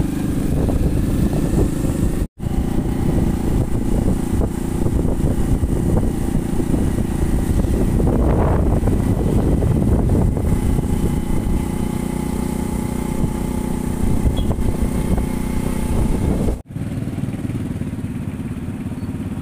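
Motorcycle engine running steadily while riding along a road, heard from on the bike with a dense low rumble of road and wind noise. The sound cuts out for an instant twice, about two seconds in and near the end.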